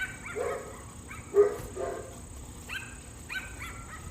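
A pet dog barking repeatedly, short high-pitched barks coming in irregular runs, the loudest about a second and a half in.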